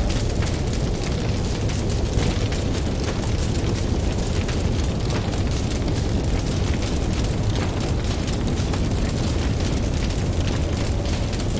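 Campfire crackling with many small irregular pops over a steady deep rumble of ocean surf.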